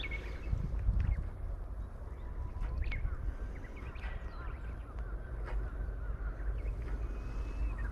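Small birds chirping and calling over a steady low rumble.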